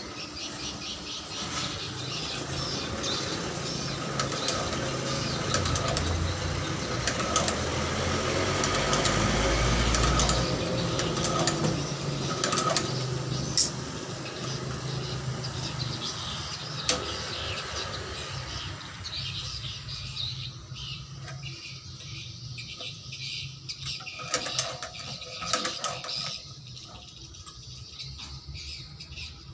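Motor-driven shoe-repair machine running, growing louder to about ten seconds in and then easing off, with scattered clicks and taps in the last third.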